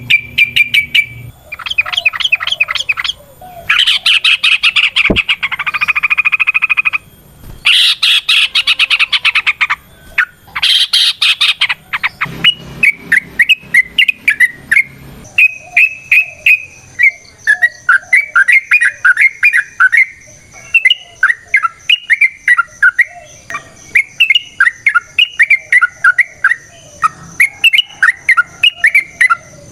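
Yellow-vented bulbul (trucukan) calling: bursts of fast rattling chatter for the first ten seconds or so, then a long run of quick bubbly chirping notes.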